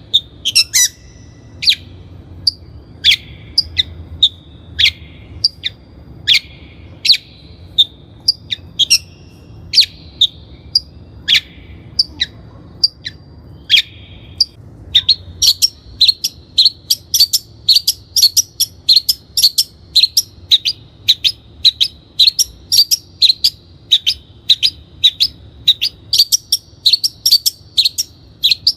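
Long-tailed shrike singing: sharp, loud notes over a thin warbling, repeated just under once a second at first and quickening to about two a second about halfway through.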